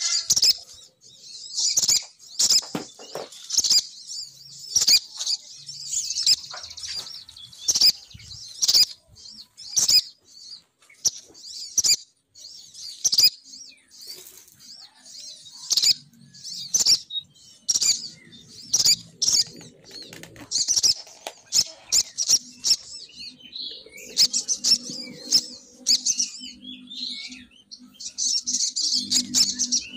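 Female sogon bird lure call (suara pikat): rapid clusters of high chirps repeated every half second to a second, with sharp clicking notes, played to draw males in. A low steady hum joins in the last several seconds.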